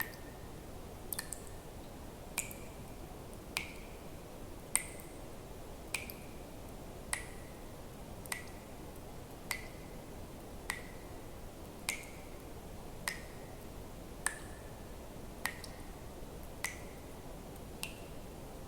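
Water drops falling one at a time at a steady pace, about one every 1.2 seconds. Each drop is a short plip with a brief ringing tone, heard over a faint steady hiss.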